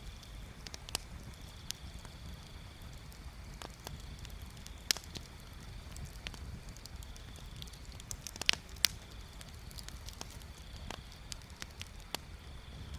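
Wood bonfire crackling, with scattered sharp pops, the loudest a close pair about eight and a half seconds in, over a low steady rumble.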